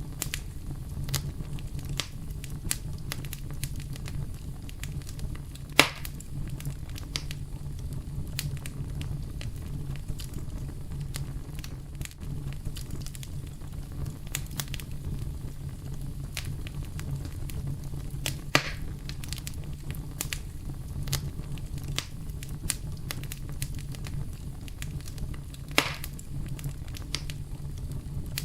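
Campfire burning with a continuous fine crackle over a steady low rumble. Three louder pops come at intervals, a few seconds in, about two-thirds through and near the end.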